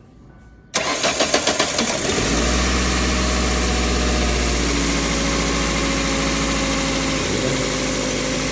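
2003 Ford Focus engine cranked by the starter with a rapid pulsing about a second in, catching about a second later and settling into a steady idle. The idle runs without the earlier grinding noise, the failed water pump having been replaced with a new one.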